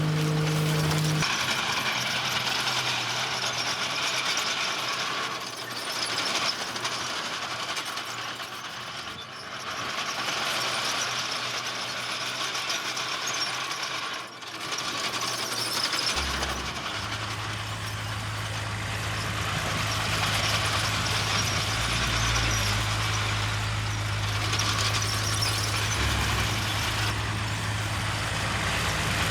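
Heavy diesel earthmoving machinery working: a steady clattering, grinding noise, with a low diesel engine hum coming in a little past the middle.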